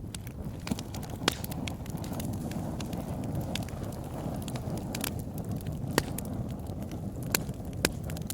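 Campfire burning: a steady low rush of flames with sharp pops and crackles of burning wood at irregular intervals, a few of them louder than the rest.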